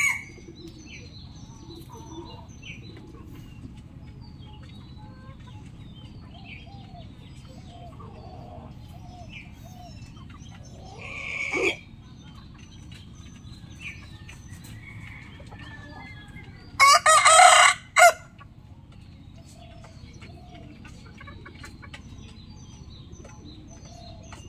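Rooster crowing: one crow that swells in loudness about eleven seconds in, then a louder crow around seventeen seconds that ends with a short extra note. Faint small calls, such as soft clucks, are scattered between the crows over a steady background hiss.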